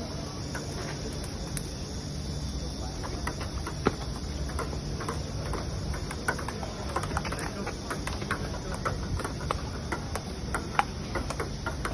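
Irregular sharp clicks and knocks of table tennis balls striking paddles and the table, over a steady low hum and a high hiss.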